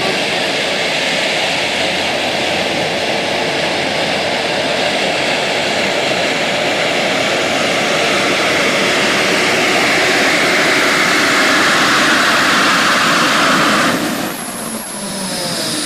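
Pulling vehicle's engine at full throttle during a pull, a loud, steady run that grows slightly brighter before cutting off sharply about 14 seconds in, then winding down with falling tones.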